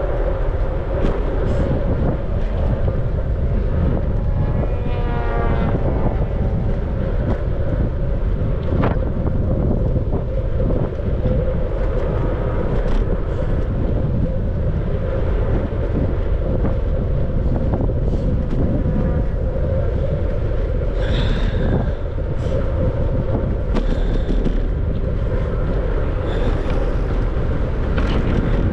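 Wind buffeting the microphone of a camera riding on a moving bicycle, a steady deep rumble with tyre and path noise under it. A short wavering sound about five seconds in, and faint scattered ticks.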